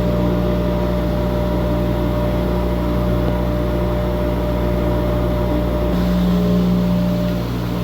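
Engine-driven wind machine running steadily for a door wind-load test: a loud, constant droning hum that changes tone slightly about six seconds in.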